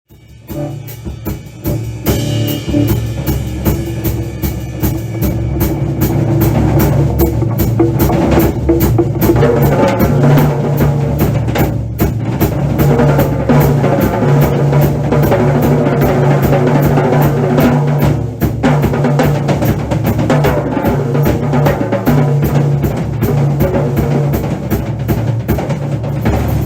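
Drum solo on a full drum kit: rapid, dense bass drum and snare strokes that fade in over the first couple of seconds and then keep going hard, with a brief let-up about eighteen seconds in.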